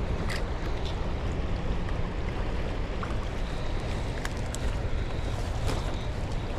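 Steady wind buffeting the microphone, with a few faint clicks.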